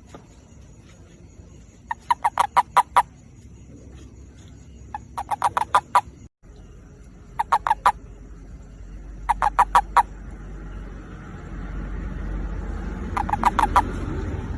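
Male toad giving its mating call: five bouts of rapid, evenly spaced pulses, each bout about a second long, a few seconds apart. A low rumble builds underneath in the second half.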